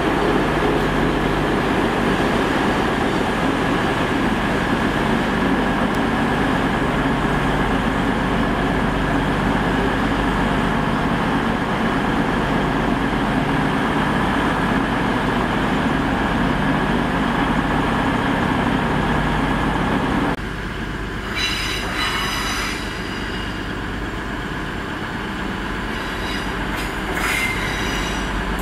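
South Western Railway Class 444 electric multiple unit running through the platform with a steady rumble. About twenty seconds in the rumble drops away, and high-pitched steel wheel squeal rings out twice.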